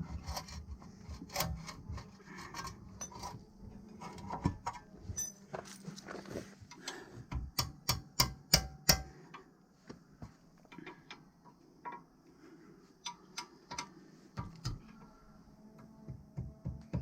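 Scattered clicks and knocks of things being handled, with a quick run of about five sharp knocks about halfway through.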